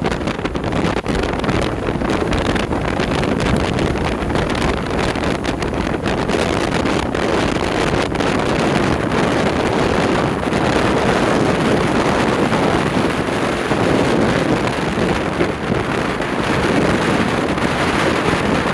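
Strong storm wind, gusting to about 45 mph, buffeting the microphone with a loud, steady rumble over the surf of storm-driven lake waves.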